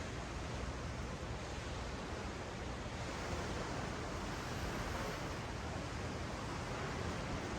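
Ocean waves washing up and back on a sandy beach, a steady even wash of surf.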